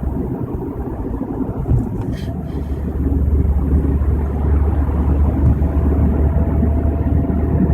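Road and tyre noise of a car moving at highway speed, heard inside the cabin: a steady low rumble that grows louder about three seconds in.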